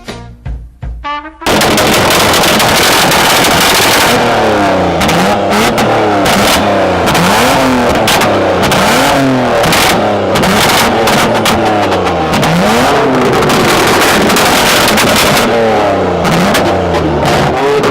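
Straight-piped Nissan Skyline GT-R engine revved hard over and over, the pitch climbing and dropping every second or two, with sharp crackles and pops from the exhaust. It starts suddenly about a second and a half in.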